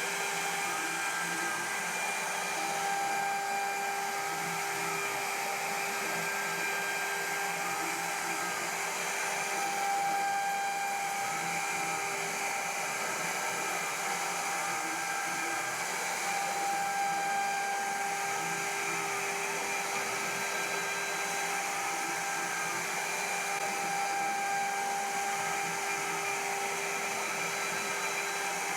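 CNC milling machine spindle running steadily while cutting, a constant high whine with several held tones. A fainter tone rises and falls about every second and a half.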